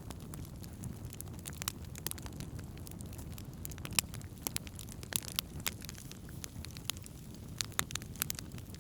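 Campfire crackling: burning wood gives irregular sharp pops and snaps over a steady low rumble.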